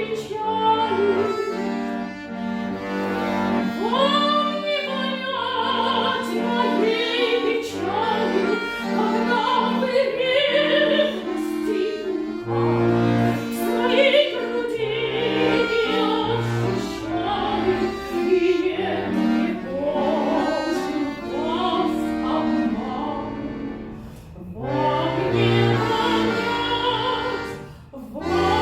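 A classically trained voice singing a romance with vibrato over sustained instrumental chords, with brief breaks between phrases about three-quarters of the way in and near the end.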